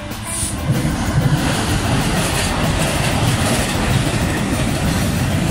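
Class 66 diesel locomotive hauling an intermodal container freight train past, its engine running as it goes by, followed by the loaded wagons' wheels running on the rails. The sound swells about a second in and then holds steady.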